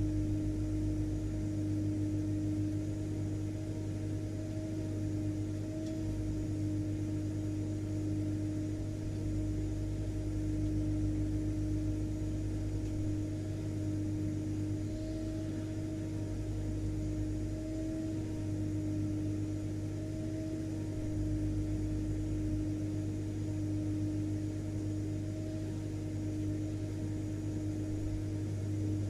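Household vacuum cleaner (hoover) motor running steadily, an even hum with a constant pitch.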